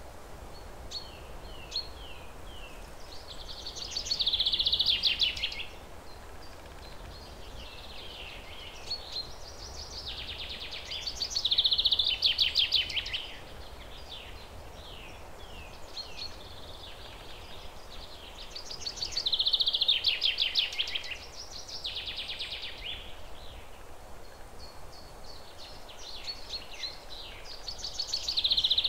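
A songbird singing: a loud, fast trilling phrase about two seconds long repeats four times, roughly every seven to eight seconds, with short falling chirps in between, over a faint steady hiss.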